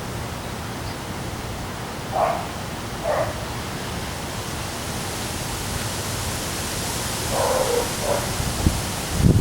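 Strong wind and rain making a steady hiss that grows brighter in the second half, with low buffeting on the microphone near the end. Four short animal calls come through it, two in the first half and two in the second.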